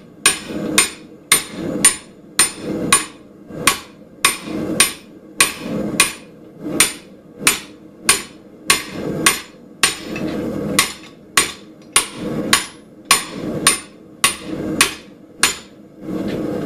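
Hand hammer striking the top of a chop fuller to neck down hot Schedule 40 steel pipe: steady, evenly paced metal-on-metal blows with a bright ring, about two a second. The blows stop near the end and a steady noise carries on.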